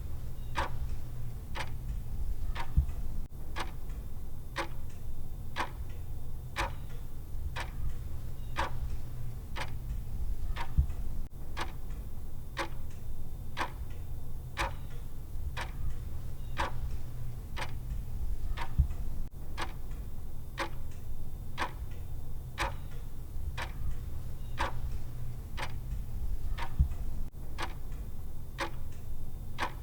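Clock-style ticking of a countdown timer's tick sound: sharp, evenly spaced ticks in a steady rhythm, over a steady low hum.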